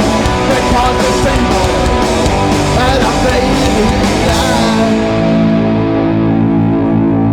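Live oi/punk band playing loud distorted electric guitars and drums. About five seconds in the cymbals drop out and a distorted guitar chord is left ringing, the end of a song.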